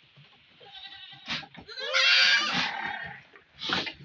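A young goat kid bleats once, loudly and with a wavering pitch, about halfway through, with short hissing bursts just before and after it.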